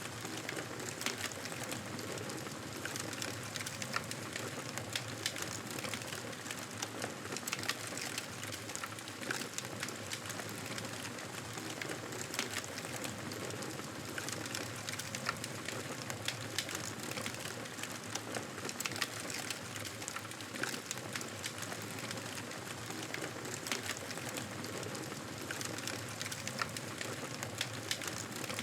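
Wood fire crackling steadily in a fireplace: frequent small sharp pops and snaps over a constant hiss.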